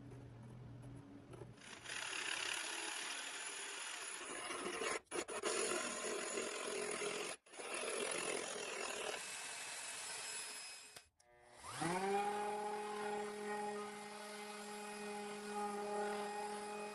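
Abrasive rubbing and scraping on steel, broken off a few times, as the rusty toy parts are worked. Then the small electric motor of a power tool spins up and runs at a steady pitch.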